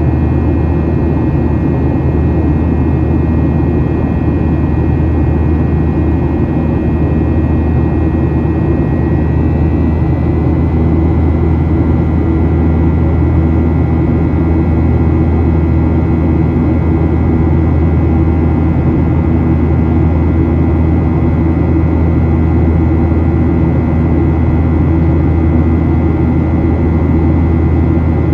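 Cabin noise of a Boeing 737-800 in its climb: the steady low drone of the CFM56-7B jet engines and rushing air, with a thin high whine that shifts slightly in pitch about nine seconds in.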